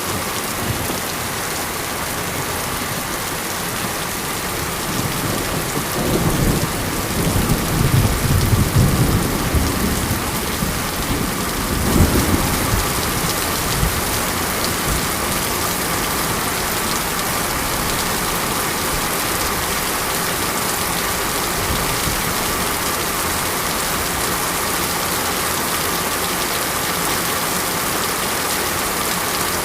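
Steady monsoon rain. About five seconds in, a low rolling rumble of thunder swells, peaks twice, and fades out by about thirteen seconds.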